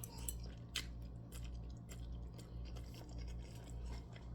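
Faint chewing and small mouth clicks from someone eating, over a steady low electrical hum.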